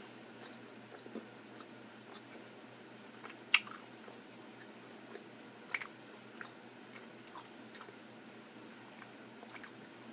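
Biting into and chewing a macaron: a sharp crack of the crisp shell about three and a half seconds in, another just before six seconds, with faint small chewing clicks between.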